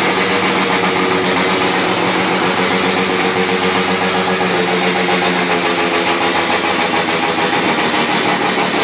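Freshly built Mazda 13B two-rotor rotary engine with a semi-peripheral bridge port, idling steadily on its first start-up.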